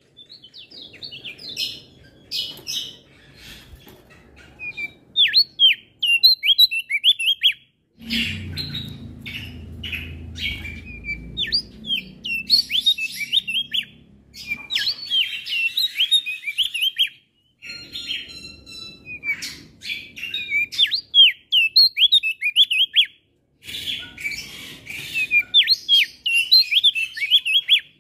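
Male opior jambul singing in fast phrases of high, sharply falling chirps, phrase after phrase with short breaks between them, over a low background rumble for a few seconds in the middle.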